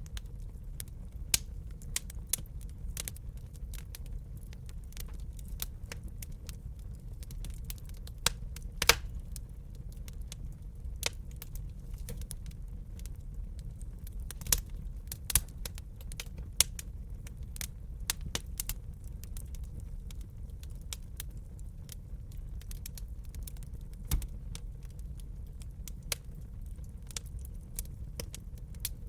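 Wood fire crackling in a fireplace: irregular snaps and pops over a steady low rumble of burning, with a few louder pops.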